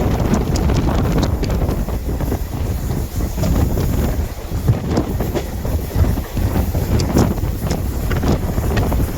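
Passenger train running: a steady low rumble with irregular sharp clacks, and wind buffeting the microphone.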